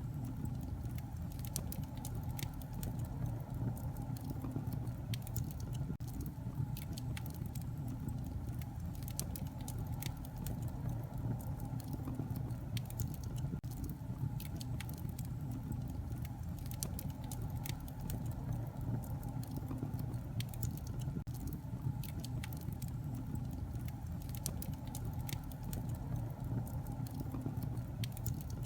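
Wood fire in a fireplace crackling steadily, with frequent sharp pops and snaps over a low rumble of burning.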